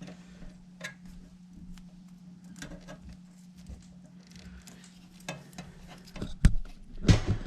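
Small clicks and taps of hands working wiring and electrical tape at the furnace, with two louder knocks near the end, over a steady low hum.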